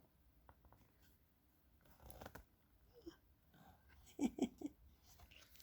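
Faint rustles and light taps of a picture book's pages being handled and turned, with a brief, slightly louder cluster of soft sounds about four seconds in.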